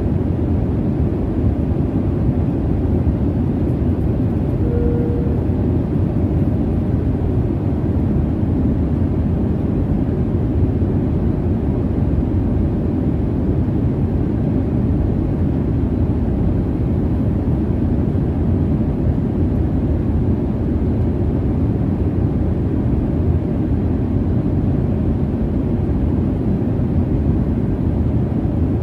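Jet airliner cabin noise in flight: a steady low rumble of engines and rushing air. A brief faint tone sounds about five seconds in.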